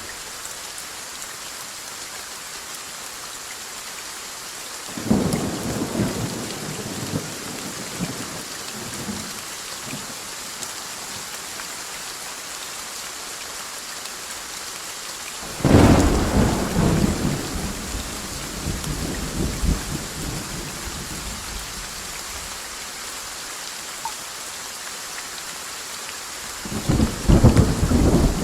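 Steady rain with three rolls of thunder: a rumble about five seconds in, a louder sudden clap about halfway through that rumbles on for several seconds, and another rumble starting near the end.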